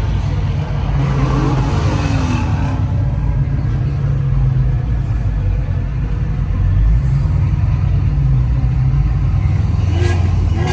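Loud, steady low exhaust rumble of car engines running.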